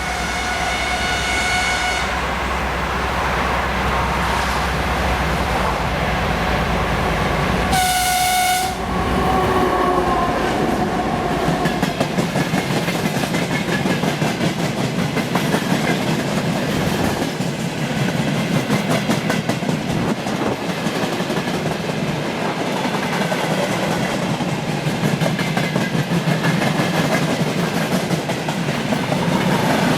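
2TE10MK two-section freight diesel locomotive passing with its horn: one blast ending about 2 seconds in and a short second blast near 8 seconds, its pitch sliding down just after. The diesel engine rumble fades out around 12 seconds, and for the rest the freight wagons go by clattering rhythmically over the rail joints.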